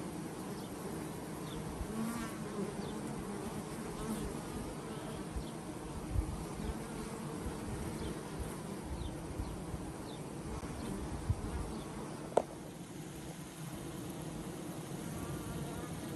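A colony of honeybees buzzing at the hive, a steady massed hum. A few short knocks break in, the sharpest about twelve seconds in.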